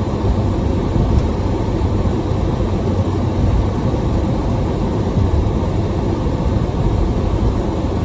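Steady low rumble of road and wind noise in a car's cabin while driving through a storm, with no breaks or distinct events.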